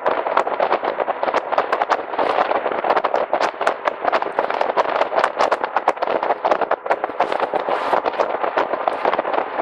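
Jet boat running at speed, heard through dense, rapid crackling and buffeting of wind on the microphone.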